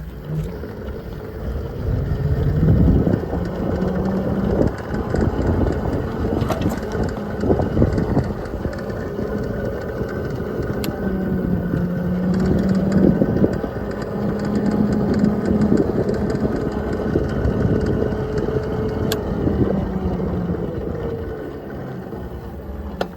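Dual-sport motorcycle running as it is ridden: a steady drone whose pitch shifts a little at times, over a heavy low rumble of wind and road noise.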